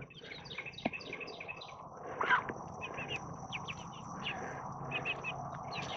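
Young poultry chirping and peeping in many short, repeated calls, with one louder call about two seconds in.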